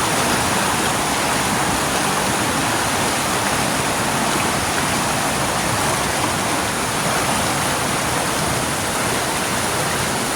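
Waterfall water rushing, a steady unbroken noise.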